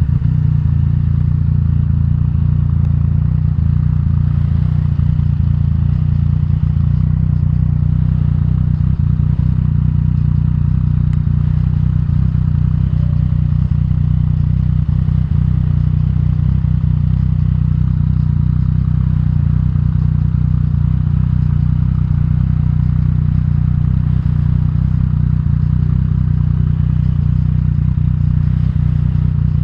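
Yamaha FZ-09's 847 cc inline-three engine running at steady, unchanging revs, with a deep, even note.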